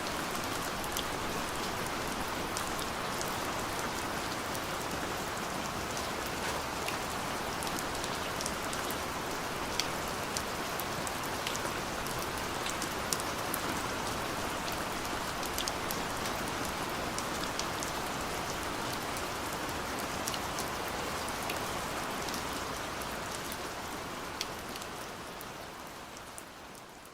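Steady light rain falling, with many scattered crisp drop ticks over an even hiss, fading out toward the end.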